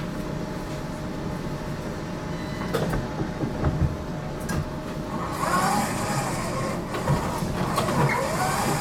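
Running noise of a GTL8 tram heard from inside, a steady low rumble. About five seconds in, a hiss and wavering higher tones join it.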